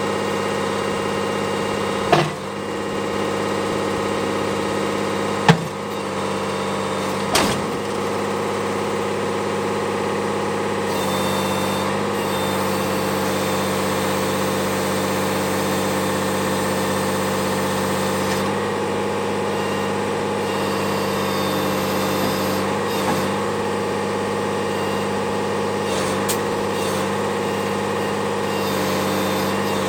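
Diesel engine of a 1988 Unimog SEE tractor idling steadily. Three sharp knocks about 2, 5.5 and 7.5 seconds in.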